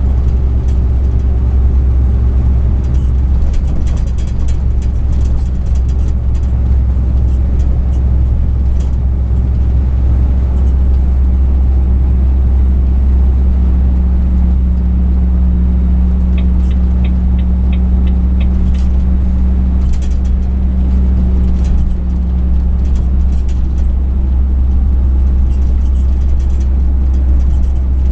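Truck engine and road rumble heard inside the cab, low and steady. A higher engine note comes in for several seconds past the middle, and there is a short run of quick, evenly spaced ticks about halfway through.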